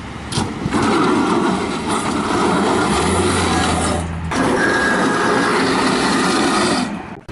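Refrigerator being dragged and pushed across street pavement, a rough, continuous scraping noise that breaks off briefly about four seconds in and stops shortly before the end.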